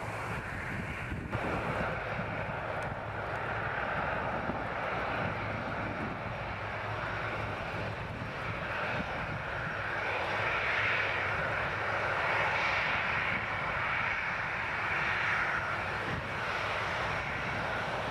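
Boeing 737-800's CFM56 turbofan jet engines running with a steady roar that swells a little past the middle.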